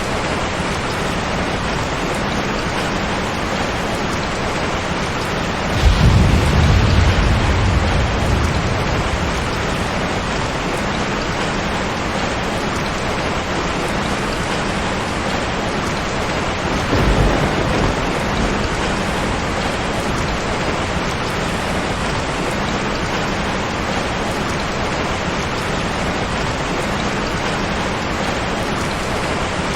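Steady heavy rain, with a sudden clap of thunder about six seconds in that rumbles away over a few seconds, and a shorter, quieter roll of thunder about seventeen seconds in.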